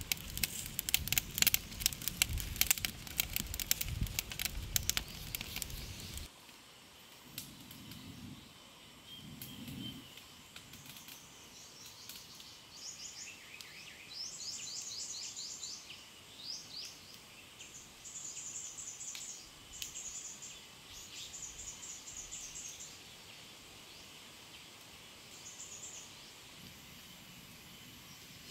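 Dense crackling and rustling that stops abruptly about six seconds in, followed by birds singing in repeated chirps and short trills.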